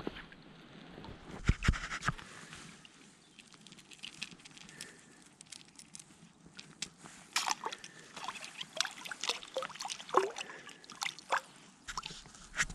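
Water sloshing and dripping in small, irregular splashes, sparse at first and busier in the second half.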